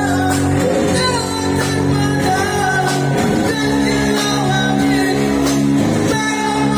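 A song performed by a singer with guitar accompaniment: a sung vocal line over held chords.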